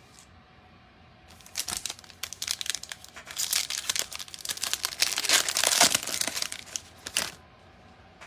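Foil wrapper of a Panini Chronicles baseball card pack crinkling and tearing as it is ripped open by hand: a dense run of crackles starting about a second in and lasting about six seconds, loudest near the end.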